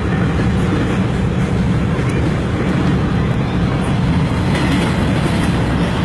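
Long freight train's cars rolling past close by: a steady, loud rumble of steel wheels on the rails.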